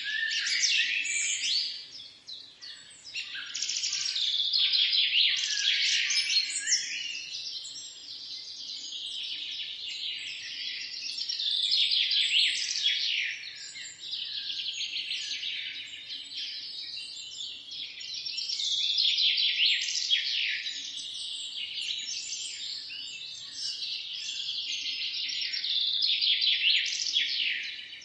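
Many small birds chirping and singing together in a dense chorus of quick high trills, swelling and fading in waves every few seconds.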